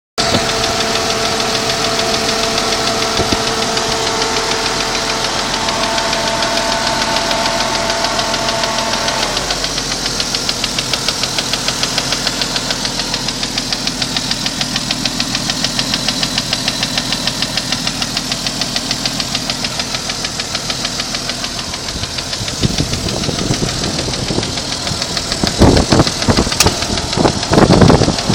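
A 1992 Jeep Cherokee engine running with a fast, even ticking over its sound; the ticking is the strange noise being shown. Near the end, louder irregular noises come in.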